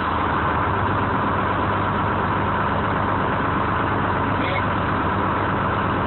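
1970 American 7510 crane's engine running steadily at a constant speed, under an even hiss.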